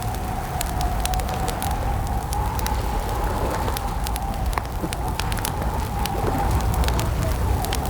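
Campfire crackling: many sharp pops and snaps over a steady low rumble, with a faint wavering tone running underneath.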